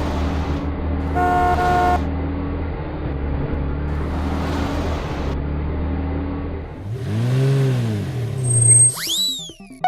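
Cartoon vehicle sound effects: a steady engine drone with a short horn toot about a second in and several whooshes, then near the end a sound that bends up and back down, followed by a quick rising whistle.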